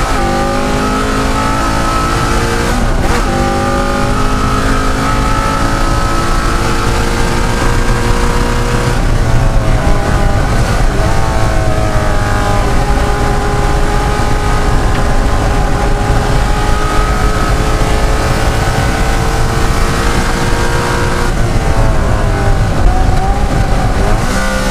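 De Tomaso Pantera race car's Ford V8 at racing load, revving up through the gears. The pitch climbs and drops sharply at each of several gear changes, with one long, slow climb in the middle.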